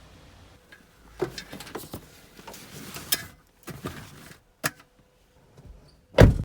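A series of scattered knocks and clicks from objects being handled, ending in a loud thump about six seconds in, after which the sound cuts off.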